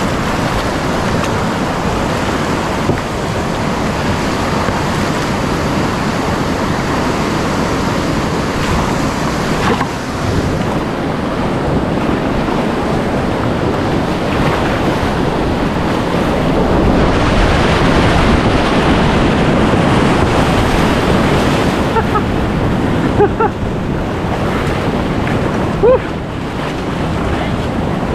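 Rushing whitewater of a high-water river rapid: a loud, steady churning of water with wind on the microphone, growing louder around the middle, with a couple of brief sharper sounds near the end.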